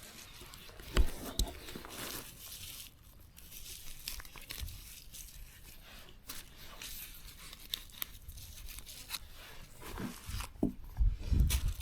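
Leaves and plant stems being torn and rustled by hand: irregular crisp tearing and crackling with scattered sharp clicks.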